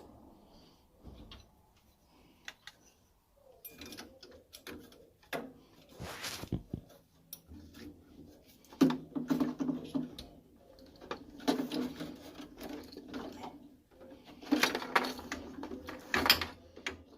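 Scattered clicks and rattles of hands and tools on metal parts, then three runs of a second or two in which a small motor hums under clattering.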